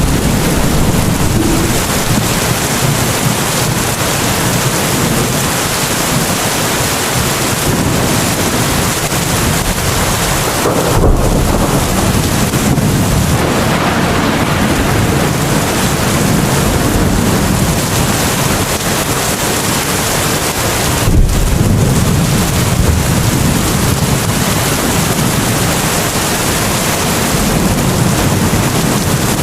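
Steady heavy rain, a dense even hiss, with a brief low thump twice, about ten seconds apart.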